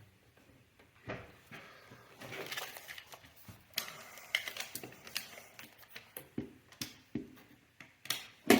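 Hands working at a table saw, adjusting and checking the fence: scattered small knocks, clicks and scrapes starting about a second in, with a sharper click near the end.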